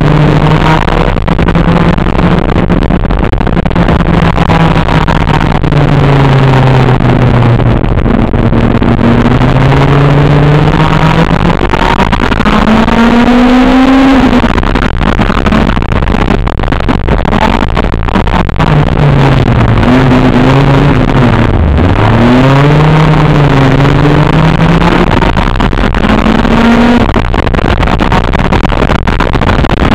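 Honda CRX's swapped-in B18C 1.8-litre DOHC VTEC four-cylinder heard from inside the cabin while driving, with road noise underneath. The engine note climbs to a high peak about halfway and drops suddenly at a gear change. Several quick rises and falls in pitch follow as the driver shifts and lifts off.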